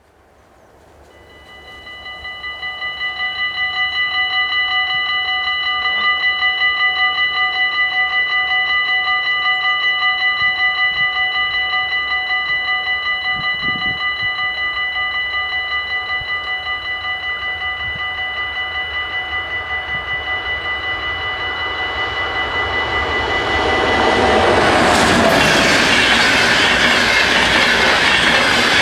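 Dutch level crossing warning bells ringing rapidly and continuously, a steady metallic ding repeated several times a second. About four-fifths of the way in, a train arrives and passes over the crossing with a loud rush of wheel and rail noise that covers the bells.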